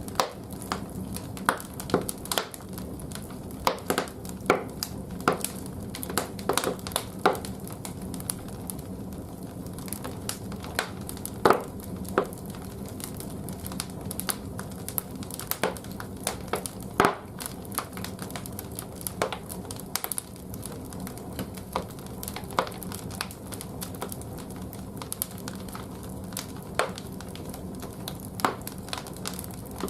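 Firewood crackling and popping as it burns in the firebox of a wood-fired bathhouse boiler: irregular sharp cracks, a few louder than the rest, over a steady low hum.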